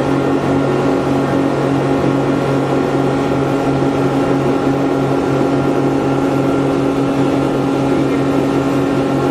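Speedboat engine running steadily at an unchanging pitch.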